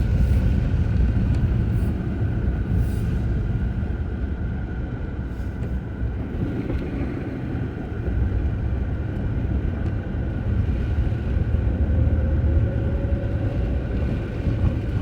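Steady low rumble of road traffic, with a faint rising whine near the end.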